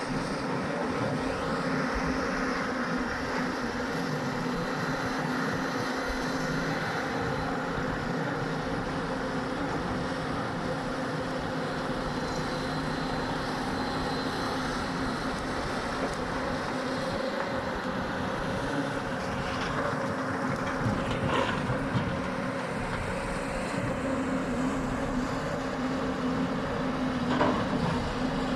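Hyundai excavator's diesel engine running steadily under load, with a few short knocks in the second half.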